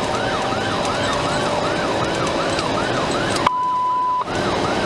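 Police car siren in a fast yelp, about three rising-and-falling sweeps a second, over steady road noise. About three and a half seconds in, a steady beep lasts under a second.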